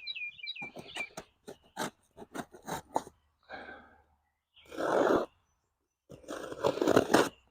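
A camera's retail box and packaging being opened by hand: a run of small clicks and crackles, then three rustling, scraping bursts of cardboard and wrapping. A bird chirps a few times at the very start.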